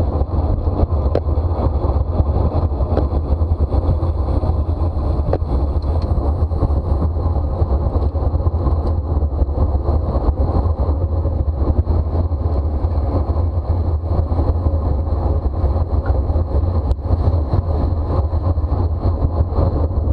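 Steady wind rumble on the microphone of a camera riding along on a racing bicycle at speed, with road and tyre noise underneath.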